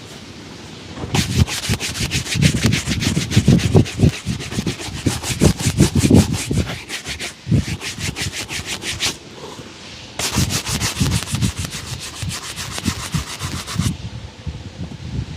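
Shoe-shine brush scrubbed rapidly back and forth across a shoe, buffing the polish. Two long bouts of quick brushing strokes with a short pause between them, about nine seconds in.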